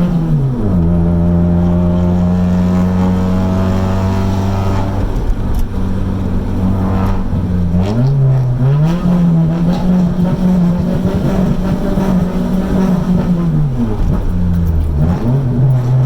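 Nissan B15 Sunny's engine through a dual-muffler exhaust, revved in a bosozoku-style 'call'. The engine note is mostly held steady, dropping and climbing back three times: about half a second in, about eight seconds in, and near the end.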